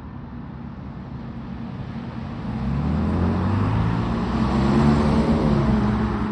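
Fire engine's diesel engine approaching and passing close by, growing louder to a peak about five seconds in, its pitch dropping as it goes past.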